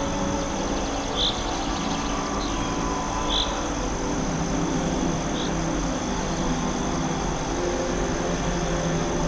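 Forest ambience: short, high bird chirps every second or two, over a steady high insect-like hum and a low sustained drone.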